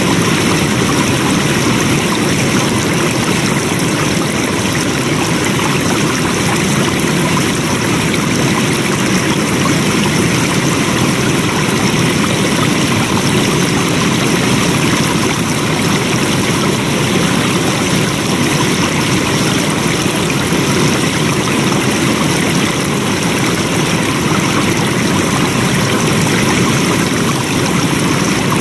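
Flowing water, a steady even rush of a stream with no breaks or changes.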